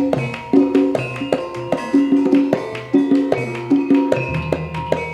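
Javanese gamelan music without singing: struck metallophones playing short repeated notes in a quick, even rhythm over hand-drum strokes.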